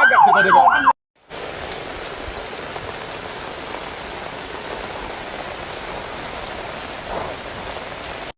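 An emergency-vehicle siren with a fast rising-and-falling wail cuts off about a second in. After a brief gap, heavy rain falls steadily on surfaces.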